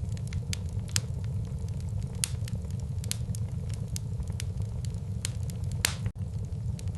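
Wood fire burning in a fireplace: a steady low rumble of flames with irregular sharp crackles and pops from the burning logs, several louder pops among many small ones. A split-second gap in the sound comes about six seconds in.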